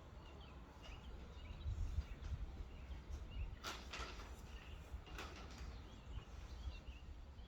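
Small birds chirping intermittently, over a low outdoor rumble, with two brief louder noises a little past the middle.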